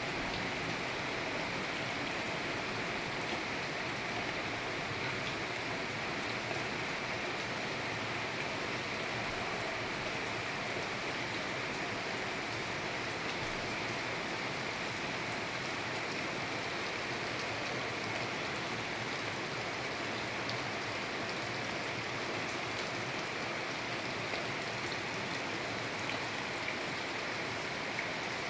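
Steady rain falling: an even, unchanging hiss with a few scattered drop ticks.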